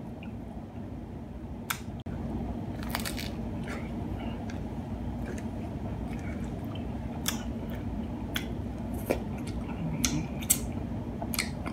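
Chewing a crunchy hard-shell taco: scattered crunches and wet mouth sounds over a steady low hum.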